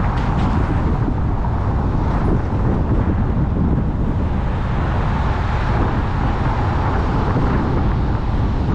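Steady road and wind noise of a car driving.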